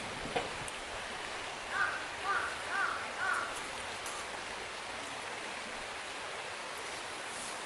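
A bird gives four short calls, about half a second apart, over a steady rushing noise.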